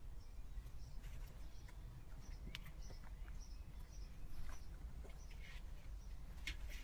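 Quiet outdoor background: scattered short, faint high chirps of small birds over a low steady rumble.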